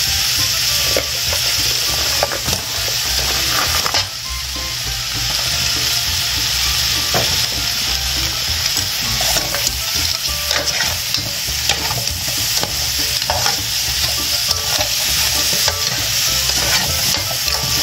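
Yuca and potato pieces sizzling in hot olive oil in a metal pot, with a metal spoon scraping and clicking against the pot as fresh crabs are stirred in. The sizzle is steady, dipping briefly about four seconds in.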